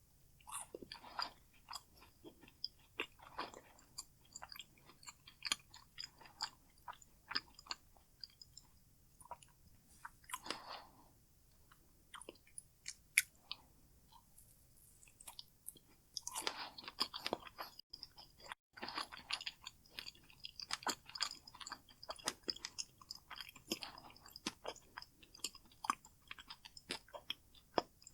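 Close-miked chewing of macaroons: bites crunch through the shell, then wet, crackly chewing in irregular clusters of clicks, with a few louder crunchy bites and a sparser pause partway through.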